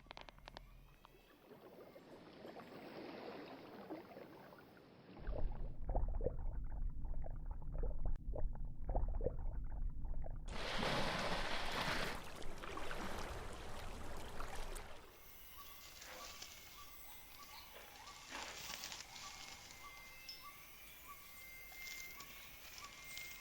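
Borneo rainforest ambience in several short takes: a stretch of low rumbling noise in the middle, then animal calls, one short call repeating about twice a second, with a whistled call rising near the end.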